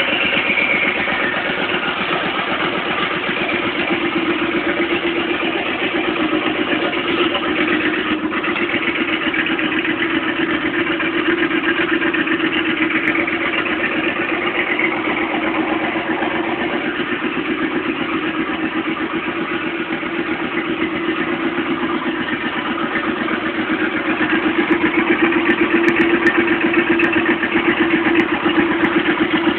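Turbocharged Suzuki Boulevard M50 V-twin motorcycle engine idling steadily, fitted with a 15T turbo from a Saab Viggen. The idle gets a little louder about three-quarters of the way through.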